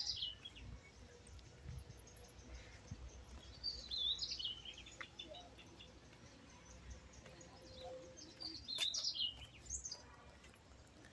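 A bird singing a short, high phrase that steps downward in pitch, repeated three times a few seconds apart over faint outdoor background noise.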